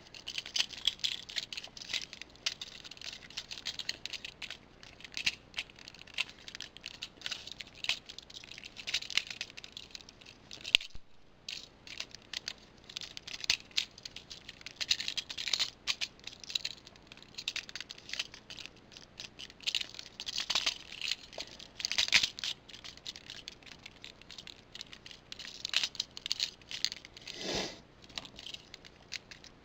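Hard plastic parts of a Transformers toy clicking, rattling and scraping as the figure is twisted and snapped into robot mode by hand, in irregular clicks with a brief pause about a third of the way in.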